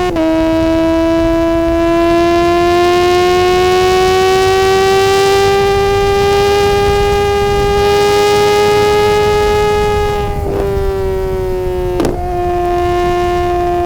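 Suzuki GSX-R600's inline-four engine running at high revs in a steady, high-pitched howl, climbing slowly in pitch for about ten seconds over wind noise. The pitch breaks and steps down right at the start and again twice near the end, as gears are changed.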